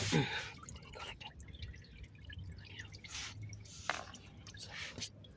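Used engine oil dripping from the opened oil-filter housing into a drain pan: faint, irregular drips with a couple of small clicks.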